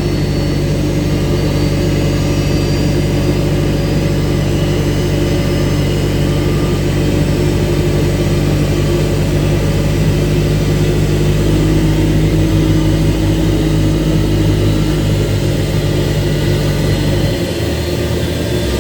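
Steady, loud engine drone during an Airbus A321-231's pushback, a low hum with several steady tones over a high hiss. Near the end the deepest part of the drone drops off.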